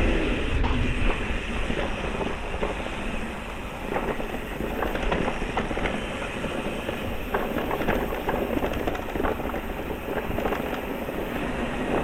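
Electric mountain bike rolling over a rough trail, rattling over bumps with many small knocks and clicks, and wind rumbling on the microphone.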